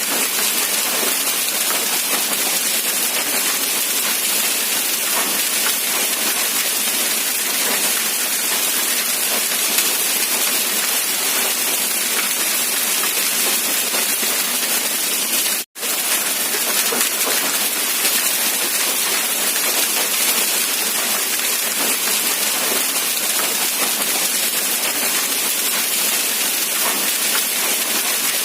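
Steady rain falling, an even dense hiss with little low rumble. The sound cuts out for an instant a little past halfway, then resumes unchanged.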